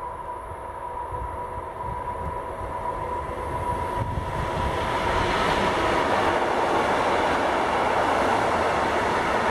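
Freight train hauled by a Class 185 electric locomotive approaching and passing close by. A faint steady tone is heard as it nears; from about four seconds in it gives way to a loud, steady rush of wheels on rails as the locomotive and the loaded container wagons roll past.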